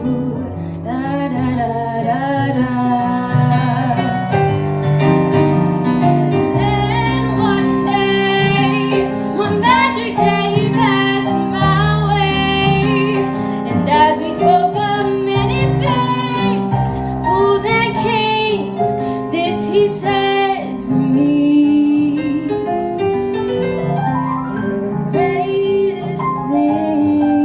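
Music: a woman's voice singing a wordless, wavering melody over piano accompaniment.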